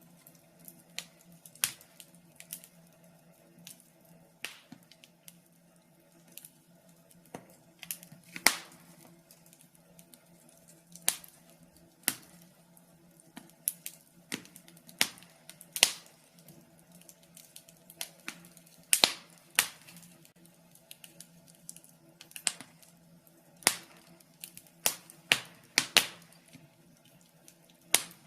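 Wood fire in a fireplace crackling, with irregular sharp pops and snaps, some louder than others, over a faint steady low hum.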